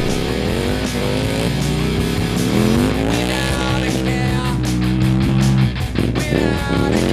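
Indian FTR1200's V-twin engine revving hard, its pitch climbing again and again as it pulls through the gears, with a short dip about six seconds in. It is mixed under rock music with electric guitar.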